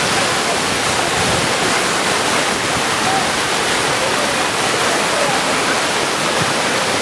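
Steady, unbroken rushing of water, as from heavy rain or flowing floodwater.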